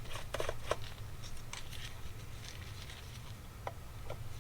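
Light clicks and taps of small metal carburetor parts being handled, a cluster in the first second and two more near the end, over a steady low hum.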